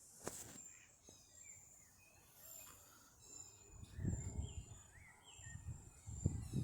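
Faint outdoor birdsong: scattered short high chirps, some rising in pitch, with a thin repeated high note. Low rumbles come in about four seconds in and again near the end.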